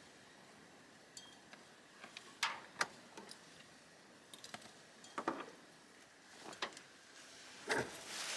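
Scattered light clicks, knocks and clinks of small hard objects being handled, the sharpest pair about two and a half seconds in and a heavier knock near the end.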